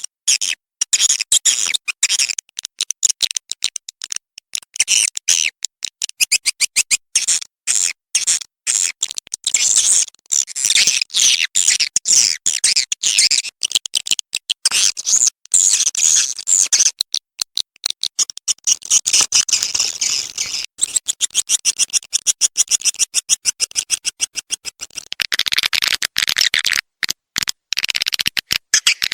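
Swiftlet call-sound recording: a fast, choppy stream of high chirps and clicking twitters from edible-nest swiftlets, the kind of track played in swiftlet houses as a lure to draw the birds in to roost and nest.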